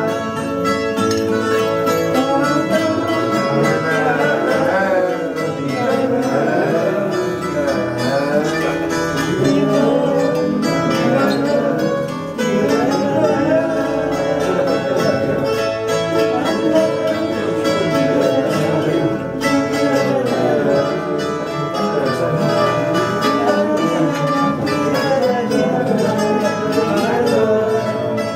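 Instrumental fado interlude: a Portuguese guitar (guitarra portuguesa) plays the plucked melody over a fado viola (acoustic guitar) accompaniment, without singing.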